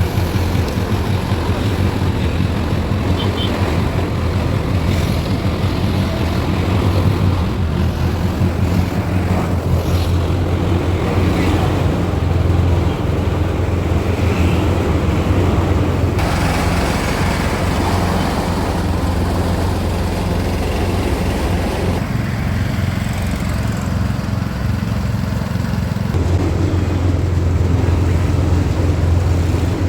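Car travelling along a road: a steady engine and road drone that holds level throughout.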